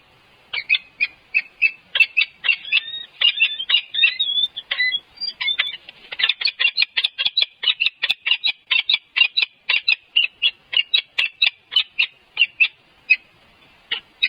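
Birds calling in a rapid run of short, high chirps, about four a second, with a few gliding notes early on that turn into a steady, even series and thin out near the end.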